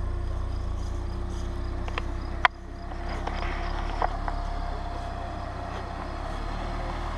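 Range Rover Evoque's engine running at low revs as the SUV crawls over a rock ledge off-road, a steady low hum. A single sharp click about two and a half seconds in, after which the hum is quieter, with a few lighter clicks.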